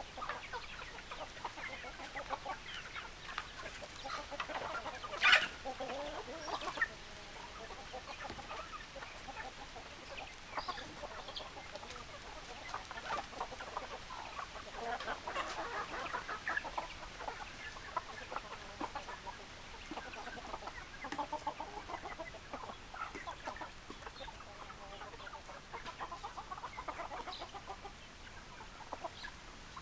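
A flock of chickens clucking continuously with many short overlapping calls. One loud, sharp call stands out about five seconds in.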